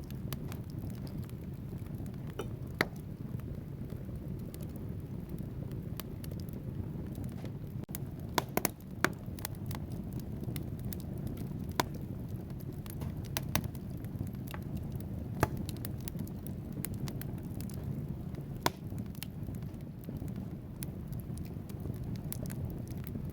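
Wood fire burning in a fireplace: a steady low rush of flames with irregular sharp crackles and pops from the burning logs, a quick cluster of pops about eight seconds in.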